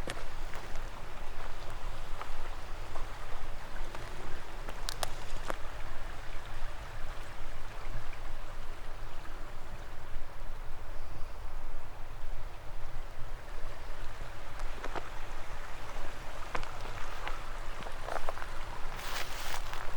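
Forest stream flowing, a steady rush of water. A few scattered clicks are heard, and footsteps on the forest floor start near the end.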